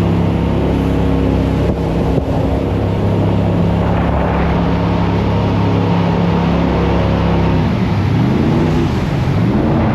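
Jet boat engine running steadily at speed, then its revs swinging up and down repeatedly near the end.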